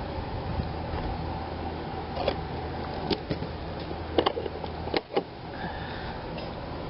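RV generator running steadily, with several sharp clicks and knocks over its hum.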